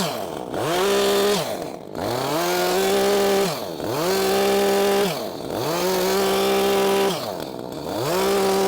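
Chainsaw cutting into a log while carving, running at full throttle and easing off briefly about every second and a half, its pitch dipping and climbing back each time.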